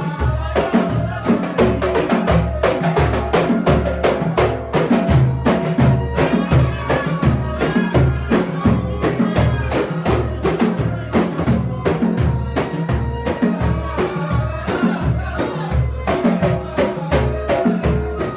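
Samri, Gulf Arabian folk music: drums beating a steady, even rhythm under a sung melody.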